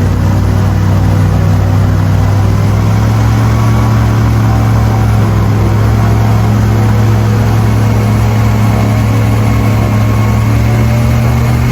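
Airboat engine and propeller running loud and steady at a constant speed.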